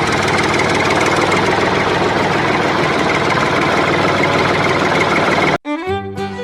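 Tractor engine running steadily with a fast knocking beat; it cuts off sharply about five and a half seconds in and fiddle and guitar music starts.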